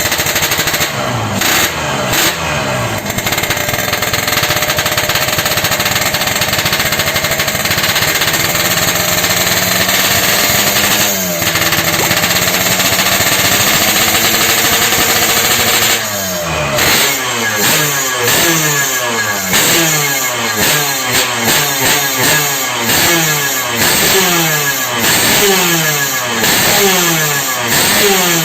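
Yamaha RX-King's single-cylinder two-stroke engine running through a custom exhaust, loud and held at high revs, then blipped repeatedly, about once a second in the second half, each rev rising and dropping back.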